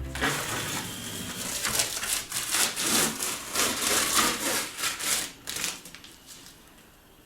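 Paintbrush brushed back and forth over wooden panels, a brisk run of scrubbing strokes that dies away about five seconds in.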